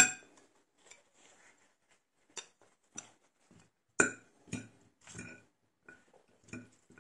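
Cutlery clinking against a dish: a series of separate light clinks with a brief metallic ring, irregularly spaced about a second apart, the loudest at the start and about four seconds in.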